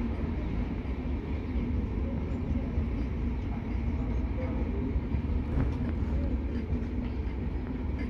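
Passenger train running along the track: a steady rumble of wheels on rails.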